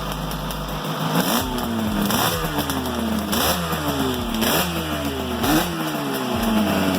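Motorcycle engine idling, then revved in about six quick throttle blips roughly once a second, each rising sharply in pitch and falling back.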